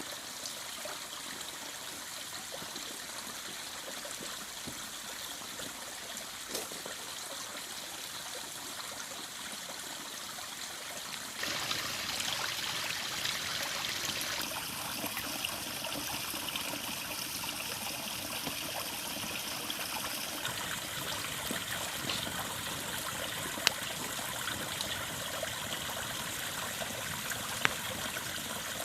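River water flowing steadily over stones, with its rushing sound jumping abruptly in character a few times, becoming louder and brighter about a third of the way in. A few sharp clicks stand out near the end.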